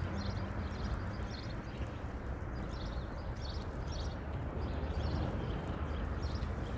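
Small birds chirping in short repeated bursts over a steady low rumble of wind on the microphone.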